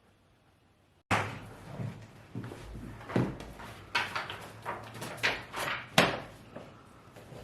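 Irregular knocks and thumps, like things being bumped or set down, starting abruptly about a second in, the loudest one about six seconds in.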